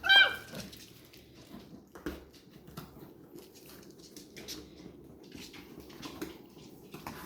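A Labrador puppy gives one short, high yelp right at the start. Then come scattered small clicks and pattering of puppies moving about and chewing.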